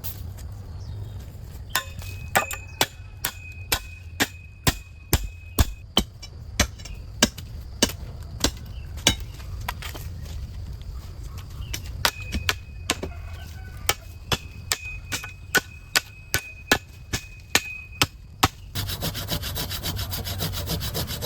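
Repeated knocking on wood, about two strikes a second, with a faint ringing tone behind some of them. Near the end a saw starts cutting wood with a continuous rasp.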